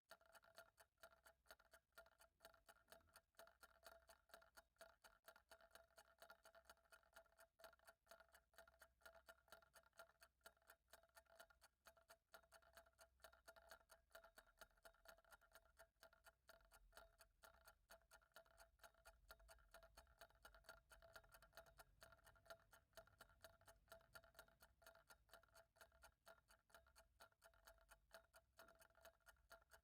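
Faint clock ticking at a steady, even rate over a faint steady tone.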